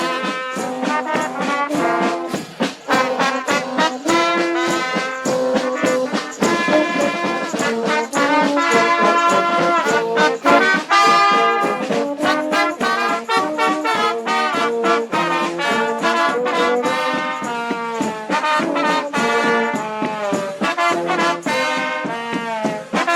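Brass band music: a melody of many short notes over a steady beat.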